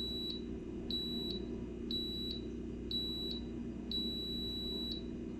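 Cuckoo electric rice cooker beeping to signal that the rice has finished cooking: four short high beeps about a second apart, then one longer beep, over a low steady hum.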